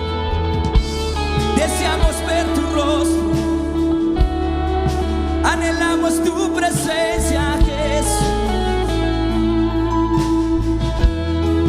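Live worship band playing a slow gospel song, with sung vocals over sustained bass, guitar and keyboard chords and occasional drum hits.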